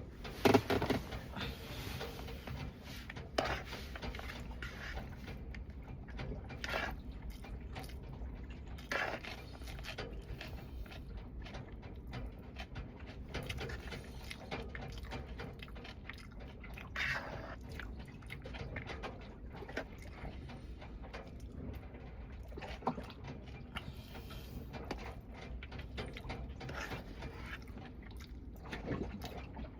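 A person chewing food with wet mouth sounds and scattered smacks, the loudest about half a second in.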